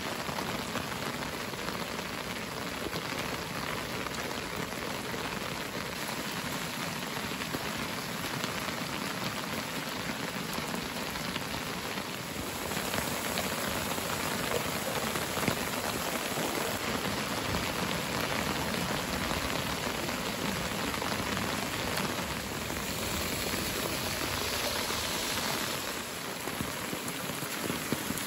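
Steady rain falling, a little louder and brighter from about halfway through.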